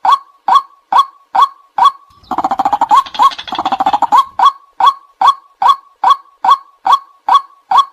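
White-breasted waterhen calling: an even series of sharp 'kwak' notes, a little over two a second. About two seconds in they give way for about two seconds to a faster, harsher babble of calls, then the steady series resumes.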